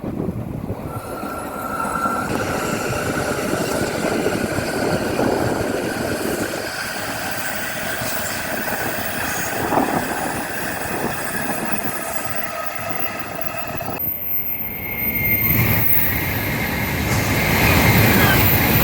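Tokaido Shinkansen bullet train running, a steady rushing noise with high whining tones over it. The sound changes abruptly about three-quarters of the way through, then grows louder near the end.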